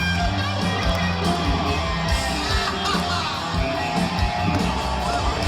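Live band music from a country concert, with guitar and singing, heard through a fan's recording.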